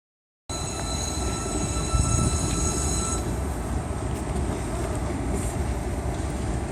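Amtrak passenger train rolling past close by: a steady rumble of the cars on the rails, with a thin, high wheel squeal that cuts off about three seconds in.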